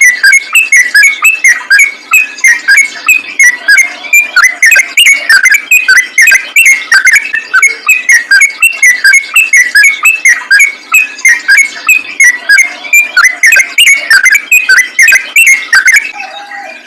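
Yellow-vented bulbul singing a fast, unbroken run of short chattering notes, several a second, which stops about a second before the end.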